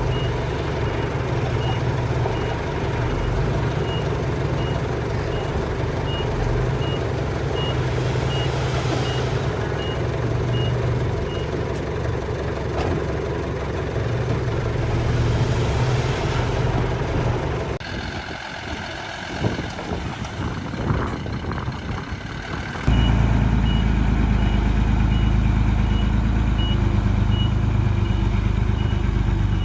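Miniature dump truck's engine running with its reversing beeper sounding a steady series of short high beeps. For a few seconds past the middle the beeping stops and the engine drops away to a quieter stretch with some clicking, then a louder engine rumble comes in suddenly and the beeping starts again.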